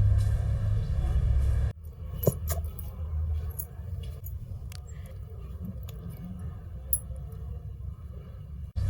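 Electric mixer grinder (mixie) running steadily with a low hum, blending cake batter, then cutting off suddenly about two seconds in. After that, a few light clicks and clinks.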